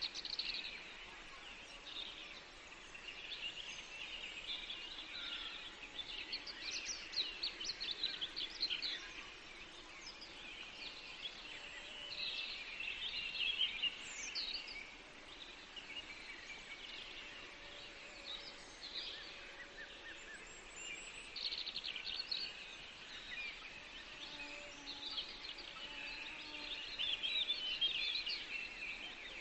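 Forest birdsong: several small birds singing, with quick high chirps and trills that come in clusters, busiest near the start, in the middle and near the end. Softer, lower calls sound now and then over a faint steady background hush.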